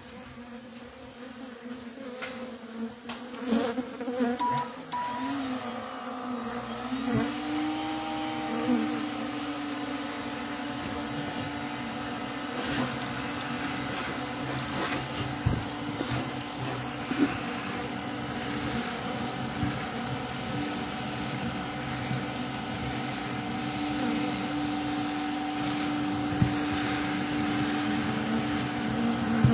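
Honey bees buzzing, with a few knocks in the first seconds. About seven seconds in, a small electric motor starts, comes up to speed and runs as a steady hum alongside the bees.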